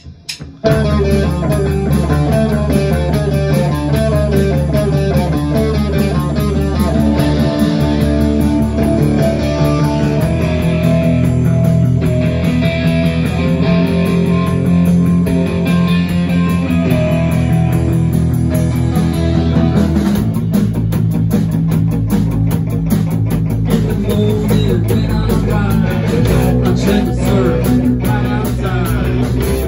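Rock band playing live, with electric guitars, bass and drums kicking in together about half a second in, following a few stick clicks. The arrangement shifts at about twenty seconds.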